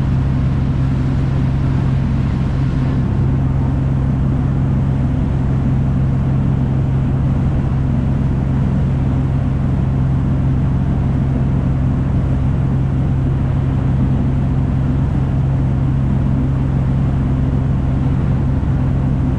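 River cruise boat's engine running steadily underway, a constant low hum with even noise over it.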